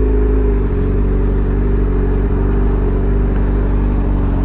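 A 2003 Yamaha R1's inline-four engine with an aftermarket exhaust, running while being ridden. Its note dips slightly in the first half-second, then holds steady at a constant engine speed.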